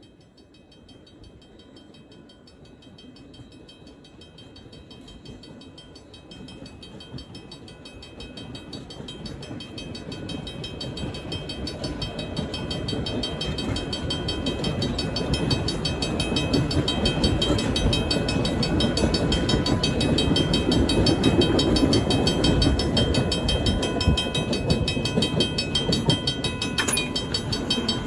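A steam-hauled excursion train approaching and passing, its rumble growing steadily louder over about fifteen seconds and then staying loud, with the clatter of the cars on the rails.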